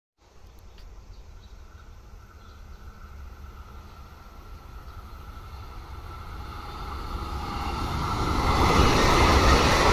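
A JR Shikoku 2000 series diesel train approaching, its engine and wheel noise growing steadily louder until it levels off near the end as the train draws level.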